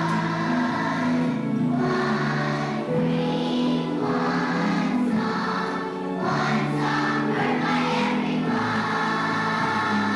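Children's choir singing with a musical accompaniment.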